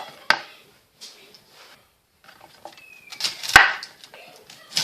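Knife cutting cauliflower on a cutting board: a sharp knock about a third of a second in, a pause, then light rustling and a louder knife strike against the board near the end.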